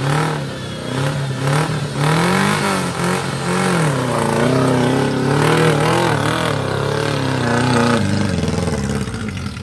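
An off-road 4x4's engine revving up and down repeatedly under load, the pitch rising and falling as the throttle is worked, easing off near the end.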